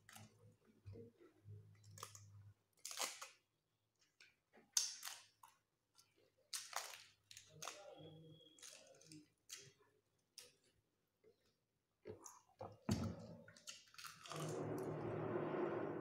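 Close-miked eating: people chewing, with scattered mouth clicks and smacks. Near the end a louder, steadier noise lasts about a second and a half.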